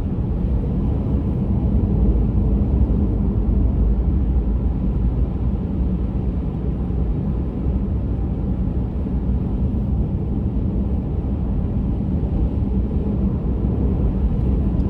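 Steady low road rumble of a car being driven, tyre and engine noise heard from inside the cabin.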